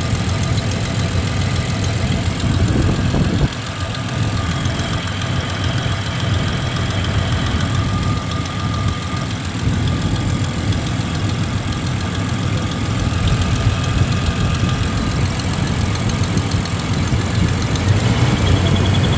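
1993 Ford Ranger's 3.0-litre Vulcan V6 idling with a misfire on one cylinder. The running dips suddenly in level about three and a half seconds in, then carries on.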